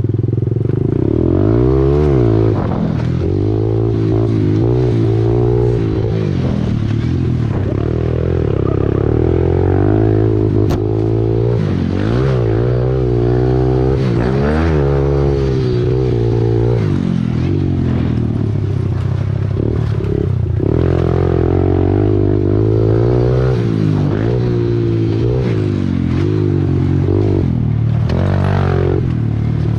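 A 110cc pit bike's small single-cylinder four-stroke engine running hard and revving up and down repeatedly through the gears while being ridden.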